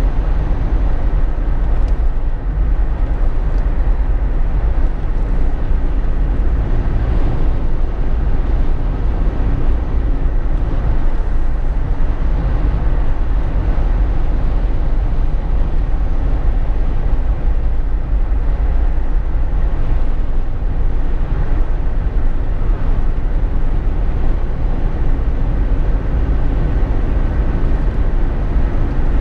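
Steady road noise inside a Jeep Wrangler JK's cabin while driving: a constant deep rumble with no change in pitch or level.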